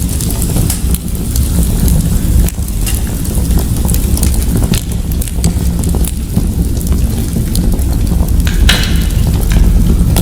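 Wood fire crackling in a fireplace: many scattered pops and snaps over a steady low rumble, with a brighter burst of crackling near the end.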